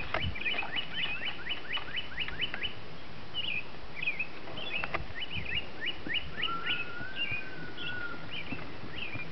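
Songbirds chirping and calling: a quick series of short falling chirps in the first few seconds, then scattered calls and one long thin whistle about six seconds in.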